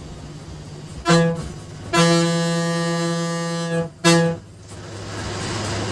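Bus horn sounded three times, a short blast, a long one of nearly two seconds, then another short blast, all at one steady pitch, over the bus's running noise.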